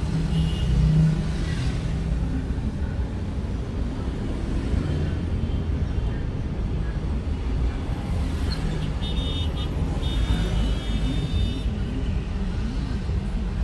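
Road vehicle noise: a steady low rumble of car and traffic, with a few short high beeping tones about two-thirds of the way through.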